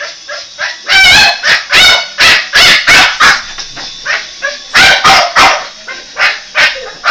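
Boston Terrier barking excitedly in quick, sharp, high barks, about two or three a second, with a short pause near the middle.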